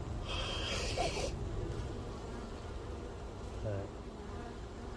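Honeybees buzzing around an opened hive in a steady hum, with a brief hiss about half a second in that lasts around a second.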